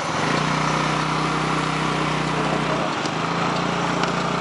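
Motorcycle engine pulling away from idle. Its pitch steps up within the first half second and then holds steady, with a brief dip about three seconds in, like a gear change.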